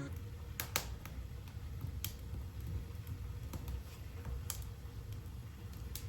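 Mushrooms grilling, giving sharp, irregular pops and crackles every second or so over a low steady background.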